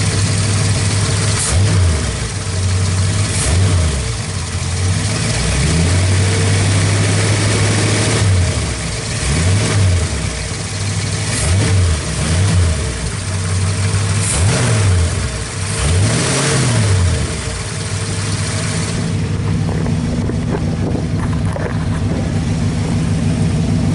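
Ford 302 V8 with a Holley four-barrel carburettor, already running, revved in short throttle blips about eight times. Each blip rises and falls back to idle, then it settles to a steady idle for the last few seconds.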